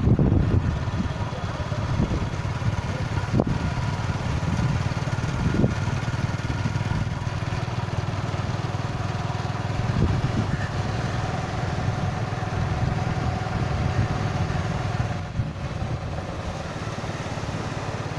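Motorcycle engine running steadily during a ride, with a few short thumps along the way.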